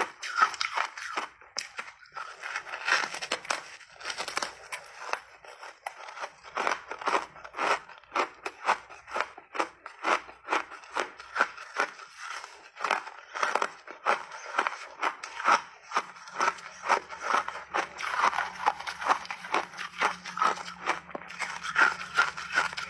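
Frost-crusted refrozen mixed berries being bitten and chewed close up, a steady run of crisp crunching cracks several times a second.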